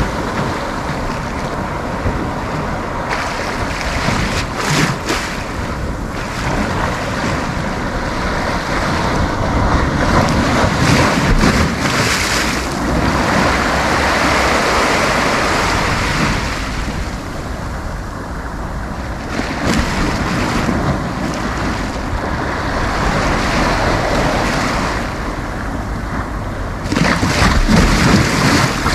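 Sea waves breaking and washing onto a sandy beach, the surf swelling and easing in turns, with wind buffeting the microphone.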